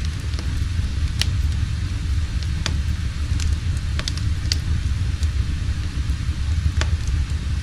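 Wood fire burning in a fireplace: sharp, irregular crackles and pops over a steady low rumble.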